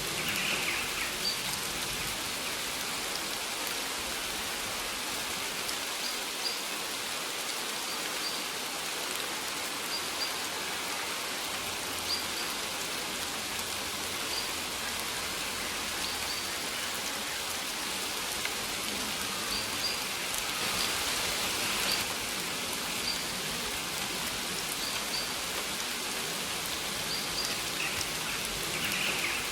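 Steady rain falling and pattering on surfaces, an even hiss with short, faint high ticks scattered through it.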